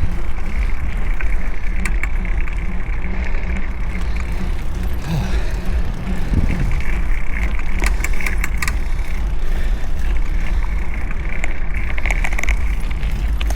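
Steady wind rush on an action camera's built-in microphone while riding a mountain bike, mixed with tyre and road noise, with a few light ticks.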